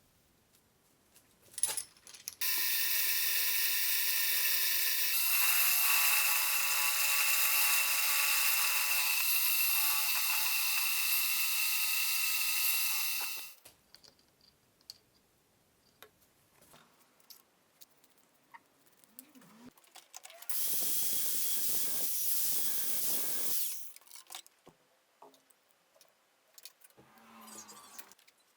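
A workshop power tool running steadily with a whine for about eleven seconds, its pitch shifting once partway through. Later comes a shorter, noisier run of about three seconds, with small clicks and knocks between the runs.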